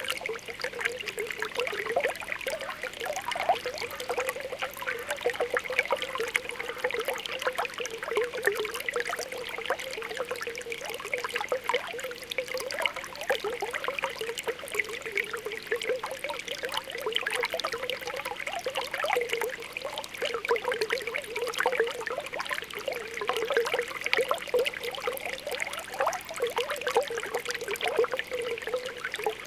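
Spring water welling up from the ground with a continuous bubbling: many small pops over a steady trickle, with no break or change.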